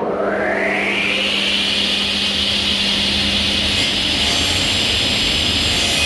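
An electric woodworking power tool switched on, its motor whine rising over about a second and a half to full speed, then running steadily.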